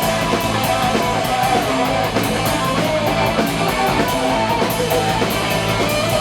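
Heavy metal band music: distorted electric guitars over a drum kit, with cymbal strokes on a steady fast beat.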